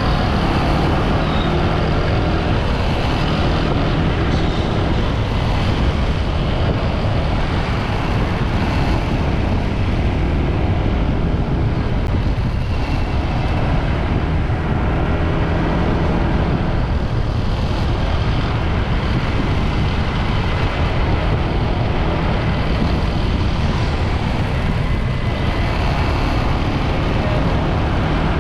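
Motorbike engine running steadily while riding at road speed, under a constant rush of road and wind noise.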